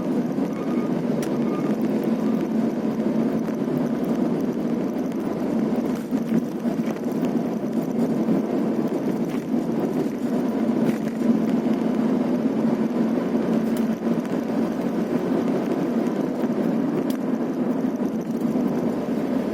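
A vehicle being driven along a rough road: steady engine and road noise heard from on board, with a few faint ticks.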